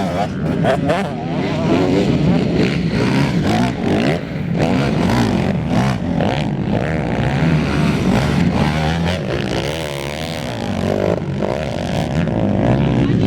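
Several 250 cc enduro race motorcycles running at once, their engines revving up and down and overlapping as they race past.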